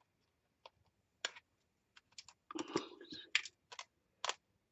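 Scattered small clicks and taps with a brief rustle about two and a half seconds in, from craft supplies being handled on a work table.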